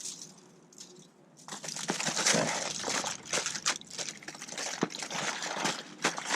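Aluminium tin foil crinkling and crunching as it is handled and folded around a food parcel. It starts about a second and a half in as a dense run of crackles.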